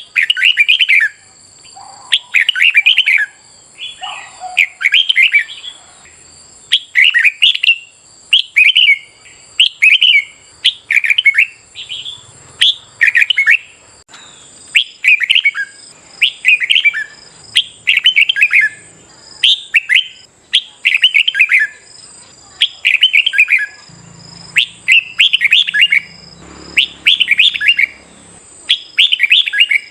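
Red-whiskered bulbul singing loud, short warbled phrases in quick succession, about one a second, in the chattering competitive song that keepers use to set other bulbuls singing. A faint steady high tone runs behind it.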